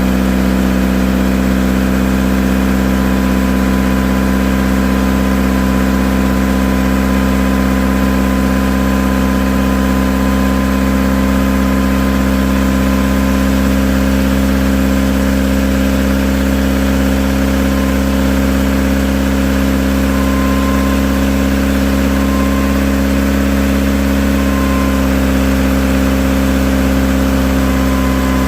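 Mitsubishi Lancer's four-cylinder engine idling steadily just after an exhaust leak repair, with no exhaust ticking left: only the injectors and ignition are heard.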